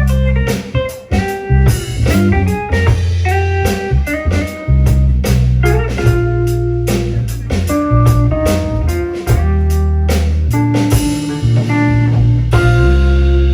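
A live band playing a song: guitar lines over bass notes and a steady drum beat.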